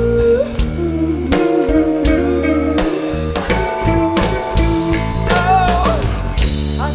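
Live rock band playing a slow song, with guitar and drums.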